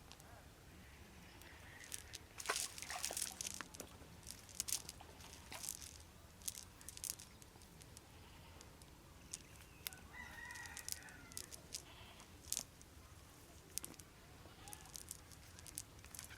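A rooster crowing once, faintly, about ten seconds in, among scattered sharp clicks and rustling.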